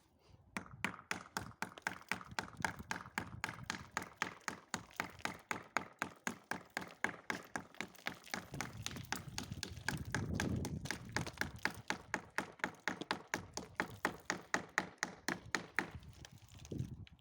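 Screwdriver tapping and chipping at the ice on a frozen car door, a fast, steady run of sharp taps, about four or five a second, to break the door free.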